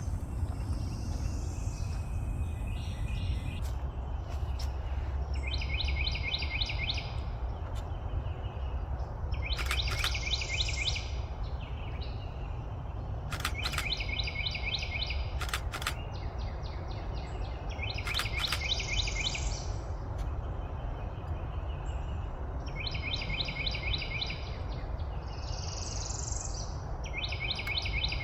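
Birds calling in the open: a short rattling trill, about a second long, repeats every few seconds, with higher rising-and-falling chirps between. A steady low rumble runs beneath.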